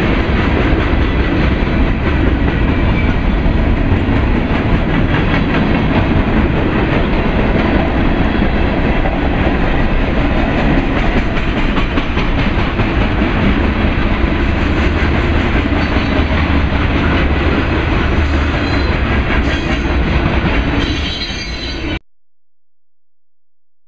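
Freight cars (covered hoppers and a gondola) rolling past on the rails: a loud, steady rumble with clattering wheels and some higher wheel squeal in the last several seconds. The sound cuts off abruptly about 22 seconds in.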